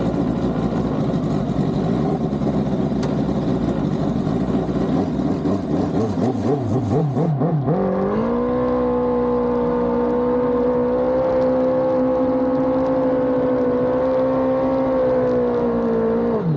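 Suzuki GSX-R1000 inline-four engine with a Brock's titanium exhaust, revving unevenly, then from about eight seconds in held at a steady high pitch that rises slightly before dropping off near the end.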